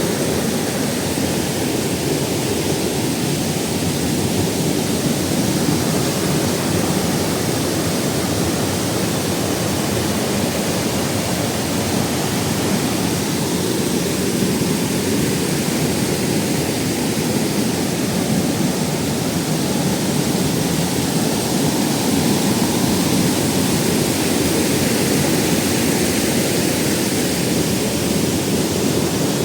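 Waterfall rushing steadily, a deep, even roar of falling water with a hiss on top.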